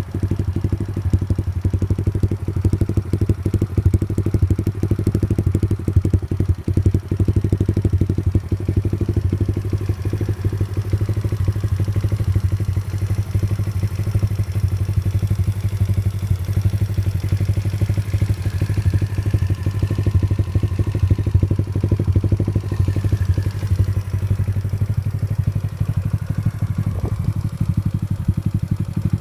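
Skyteam RC50F pit bike's 50cc four-stroke single-cylinder engine idling steadily with a rapid, even exhaust beat, warming up on choke.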